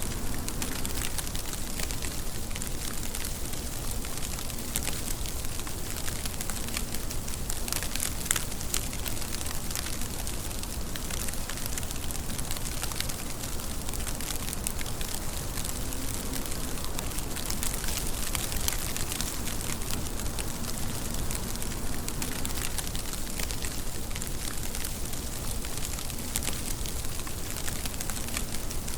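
Steady rain falling, an even hiss with a dense patter of sharp drop taps on hard surfaces.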